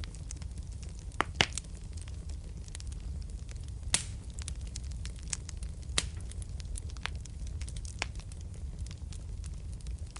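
Wood fire burning in a fireplace: a steady low rumble of flame with frequent sharp crackles and pops, the loudest pops about 1.5, 4 and 6 seconds in.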